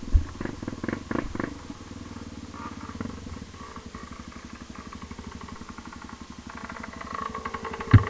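Vehicle engine running with a steady pulsing rumble, with a sharp knock just after the start and another near the end.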